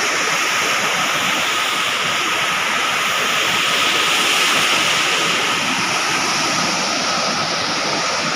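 Waterfall rushing steadily, its flow light because the water is low.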